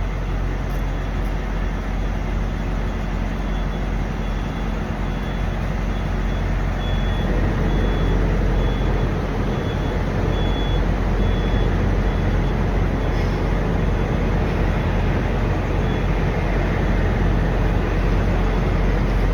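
Idling diesel truck engine at a truck stop: a steady low hum, a little louder from about seven seconds in. Through the middle comes a faint high beep, repeated at even spacing.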